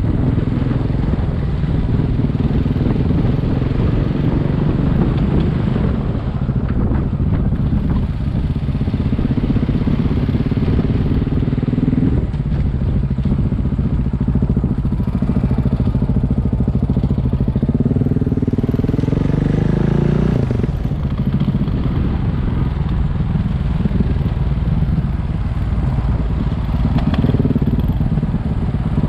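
Single-cylinder dual-sport motorcycle engine running steadily under way. Its pitch shifts with speed, stepping down about twelve seconds in, climbing around eighteen seconds and dropping sharply just after twenty seconds.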